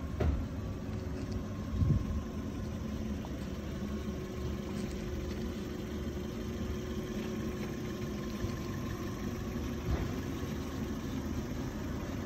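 Suzuki Ignis hatchback's small petrol engine idling steadily, with a couple of dull knocks in the first two seconds.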